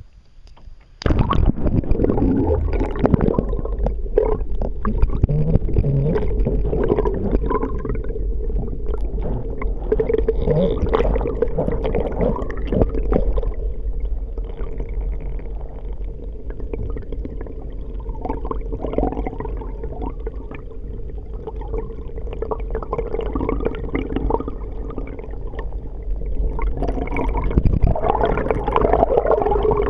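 Muffled water gurgling and rushing as heard by an underwater camera on a kayak, with a steady low drone and scattered small clicks, starting suddenly about a second in.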